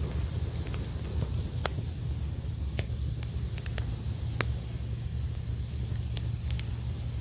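Wood campfire crackling, with several sharp pops from the burning logs, over a steady low rumble of surf.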